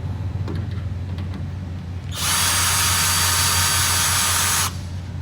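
Power drill fitted with a Phillips bit running at a steady speed for about two and a half seconds, starting about two seconds in and stopping abruptly, as it unscrews a front-panel screw.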